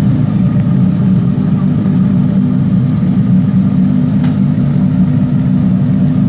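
Aston Martin One-77's 7.3-litre V12 idling steadily, a deep, even note with no revs.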